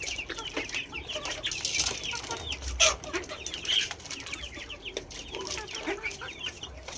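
Many poultry chicks peeping in quick, high, downward-sliding chirps, with lower clucking calls from adult birds underneath and a brief clatter about three seconds in.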